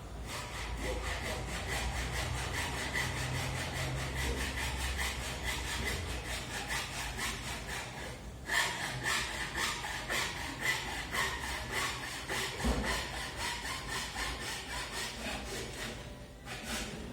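A hand tool working wood in fast, even back-and-forth strokes, about four a second, with a brief pause about eight seconds in before the strokes resume.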